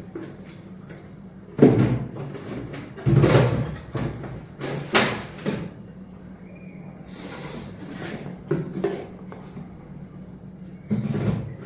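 Household cleaning and handling sounds: a string of knocks and thuds as things are set down and a cupboard, drawer or fridge door is moved, with a brief scrape about seven seconds in, over a steady low hum.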